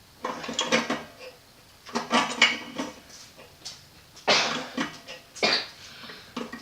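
A man coughing and clearing his throat, four short bursts with pauses between.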